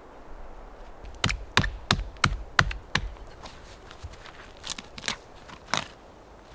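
A quick run of six sharp knocks, about three a second, then three more spaced further apart, over a low steady hiss.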